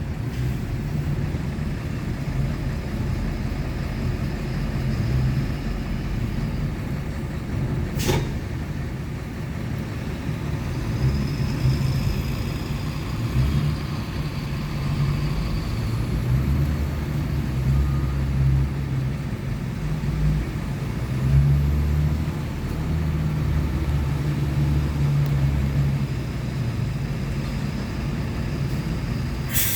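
Truck engine running with a steady low rumble that swells and eases, and a sharp click about eight seconds in.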